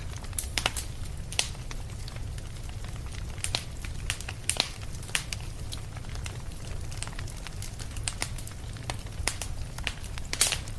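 Fireplace fire crackling, with irregular sharp pops and snaps over a steady low rumble; one louder pop near the end.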